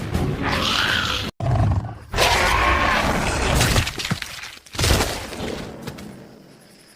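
Loud crashing, smashing sound effects in several bursts, one cutting off abruptly just over a second in, the last hitting about five seconds in and fading away over about two seconds.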